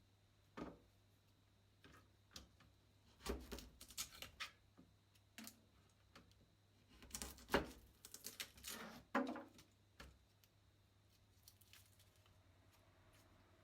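Irregular small clicks, taps and rustling in two clusters of bursts, from hands handling garlic and kitchen tools.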